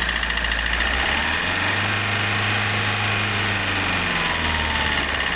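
Hyundai i20 engine idling, revved up once about a second in and held for about three seconds before dropping back to idle. It carries a knocking noise that is louder at low revs and fades when the engine is revved.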